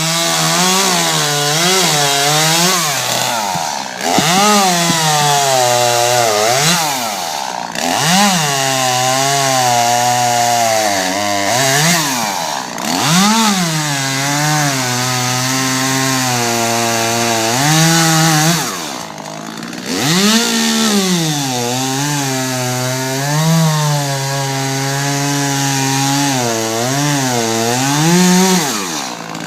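Small gasoline engine of a cutting machine working a tree stump down to ground level. It runs loud under load, its pitch dipping and recovering again and again as the cutter bites, with a few deeper bogs along the way.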